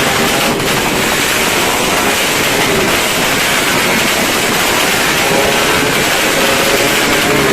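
Firecrackers and fireworks going off densely all around, merging into a steady roar without distinct single bangs.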